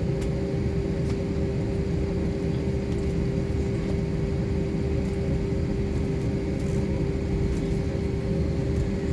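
Steady drone of an airliner cabin, a constant low rumble with a steady hum tone running through it.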